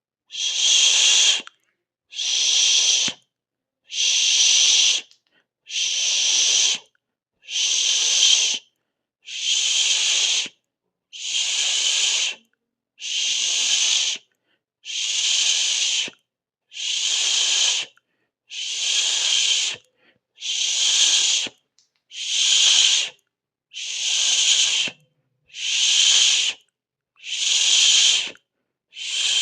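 A person making a steady 'sss' or 'shh' hiss with the mouth, about a second at a time, repeated roughly every two seconds with short silences between.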